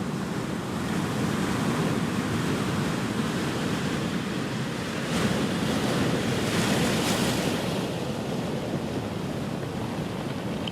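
Ocean waves breaking and washing in, a continuous rushing surf that swells about a second in and peaks with a hissing wash of foam between about five and eight seconds, then eases.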